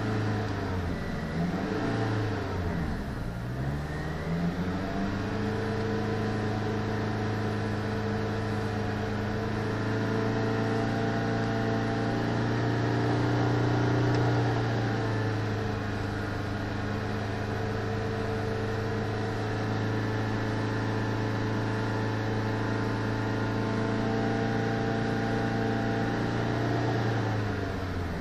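Pontiac Sunfire's four-cylinder engine revved while stationary, heard from inside the car. It dips and climbs a couple of times for the first few seconds, then is held steady at about 3,000 rpm, rising slightly and getting a little louder midway before easing back near the end.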